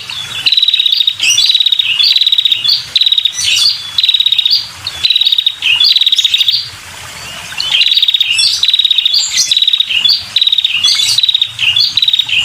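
Female red-headed prenjak calling: quick, buzzy rattling trills repeated in short bursts, about one and a half a second, pausing briefly about seven seconds in. This is the female's call, used to lure male prenjaks.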